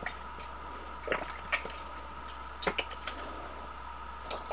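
A few short clinks and taps from a shot glass and fuel bottle being handled while stove fuel is measured out, over a faint steady high hum.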